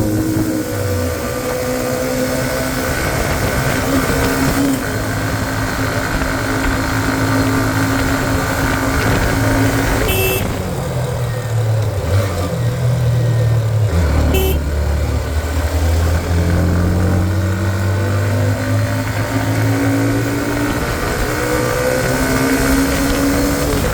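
Hero Xtreme 125R's single-cylinder 125 cc engine running under load on a hill climb, its pitch rising and falling through the ride. Two short clicks come through, a little before and a little after the middle.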